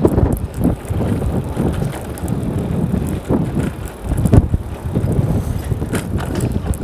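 Strong wind buffeting the microphone during a bicycle ride: an uneven low rumble that swells and drops with the gusts.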